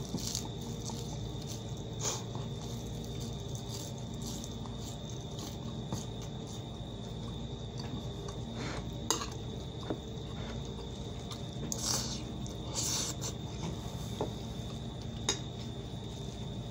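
A man chewing food with his mouth open, with wet smacking mouth sounds and scattered sharp clicks, over a steady high chirring of crickets.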